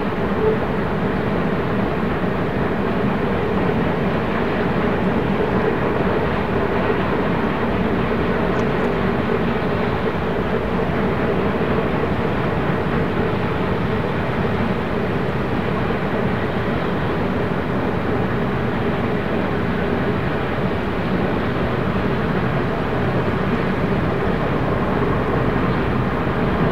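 Freight train running past with a steady rumble and engine hum, and no horn.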